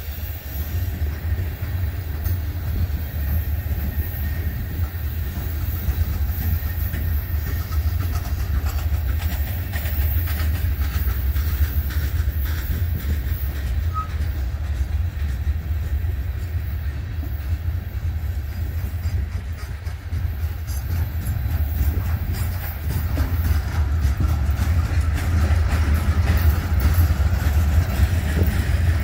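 Freight train of loaded coal hopper cars rolling past: a steady low rumble of steel wheels on the rails with faint repeated clicking, growing a little louder near the end.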